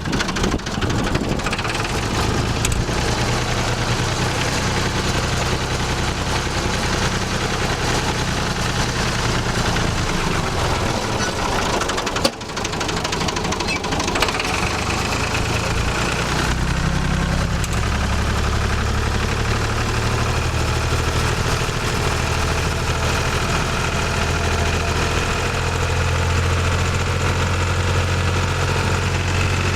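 Tractor engine running steadily as the tractor is driven, with a brief break about twelve seconds in, after which the engine's low note runs stronger.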